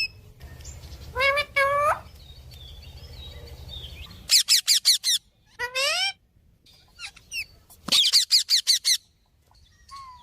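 A parrot calling: two rising squawks about a second in, then two runs of rapid, falling chirps, about eight a second, around four seconds in and again near eight seconds, with a rising call between them. A low hum under the first four seconds cuts off suddenly.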